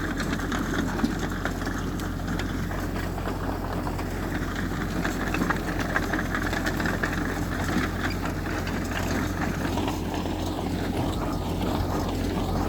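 Diesel engine of heavy earthmoving machinery running steadily, a low hum under a rough mechanical noise, with scattered small clicks and knocks.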